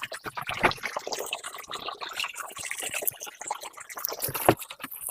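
Water splashing and dripping in quick, irregular little splashes.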